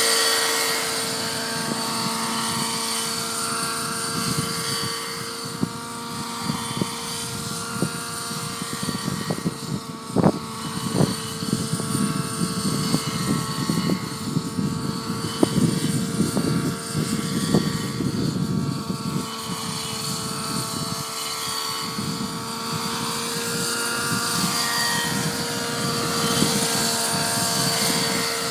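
Nitro-engined radio-controlled helicopter (Align T-REX 700 Nitro) in flight, its glow engine and rotors holding a steady high-pitched whine. Strong wind buffets the microphone with a gusty rumble throughout.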